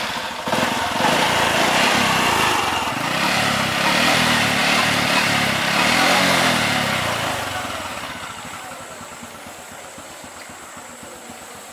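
Motorcycle engine running, loud for about the first seven seconds, then fading gradually.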